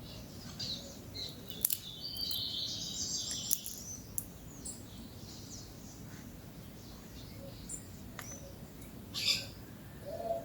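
Birds chirping and calling at a feeder, with a dense burst of high chattering about two seconds in and a louder call near the end. Several sharp clicks and taps are scattered through it.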